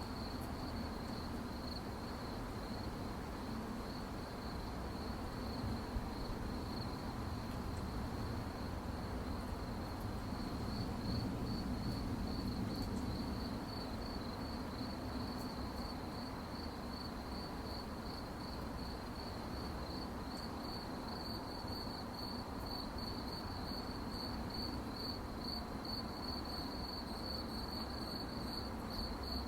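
Crickets chirping at night, a steady high pulsing trill over a soft low rumble of background noise.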